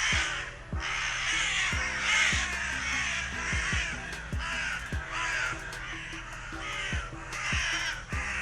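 Crows cawing repeatedly, harsh calls every half-second to second, over background music with sustained low notes and a steady beat.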